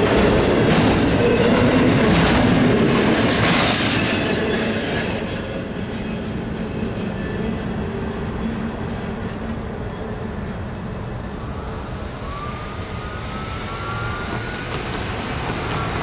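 Intermodal freight train's container cars rolling past, wheels running on the rails. It is loudest for the first four seconds or so, then drops away to a quieter steady noise.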